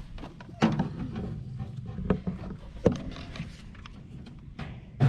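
A few sharp knocks and bumps with handling noise, over a steady low rumble like wind on the microphone.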